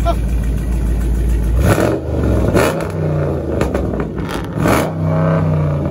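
A loud car engine, a V8 muscle car, idling low, then revved several times from about two seconds in, each rev rising and falling in pitch.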